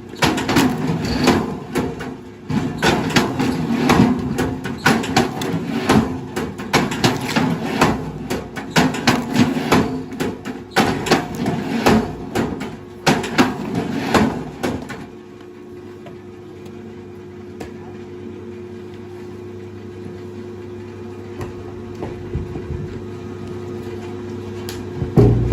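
Wood cracking and splintering in a quick run of irregular knocks over a running machine engine. About fifteen seconds in the cracking stops, leaving the engine humming steadily.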